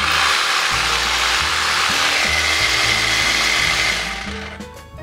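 Parkside PSTKA 12 A1 12 V cordless jigsaw running, a dense rasping buzz that winds down and stops about four seconds in.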